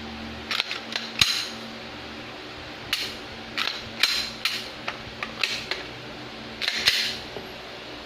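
Glock 17 Gen5 pistol being handled: a string of sharp metallic clicks and clacks in irregular groups, well short of the loudness of a gunshot.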